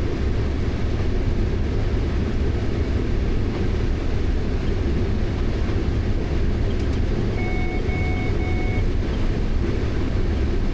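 Steady low engine drone inside a farm vehicle's cab during corn harvest, with three short electronic beeps about seven and a half seconds in.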